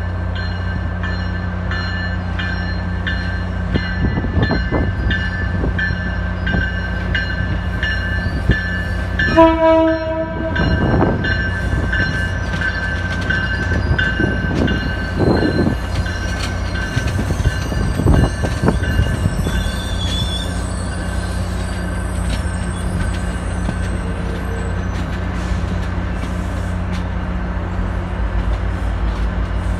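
MBTA commuter train with bilevel coaches moving through the station: a steady low diesel locomotive hum, with regular strokes about two to three a second for the first nine seconds and one short horn blast about ten seconds in. After that, high wheel squeal comes and goes as the coaches roll past.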